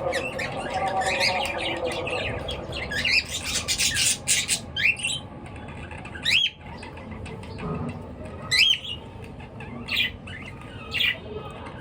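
Pet birds chirping and squawking. A quick flurry of short chirps and squawks comes in the first half, then single rising calls follow every second or two.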